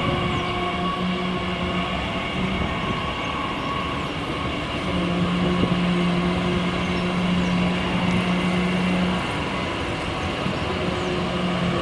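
Train moving through a station: a steady rumble with several held humming tones. A low hum is strongest from about five to nine seconds in.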